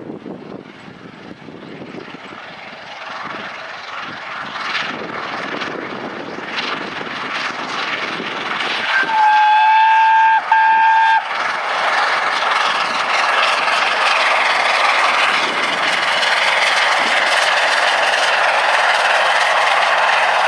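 Steam locomotive 60163 Tornado, an LNER A1 Pacific, approaching at speed and growing louder; about nine seconds in its whistle sounds one steady note, a long blast then a short one, and then the train passes with a loud, even rush.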